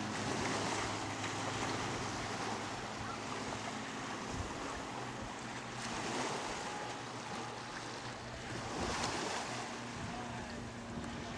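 Wind buffeting the microphone in gusts, with the faint steady drone of a radio-controlled model floatplane's Saito 100 four-stroke glow engine in flight.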